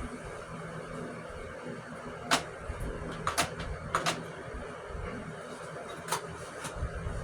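Homemade AC window panel being set into a window frame, knocking and clacking a handful of times as it is pushed into place.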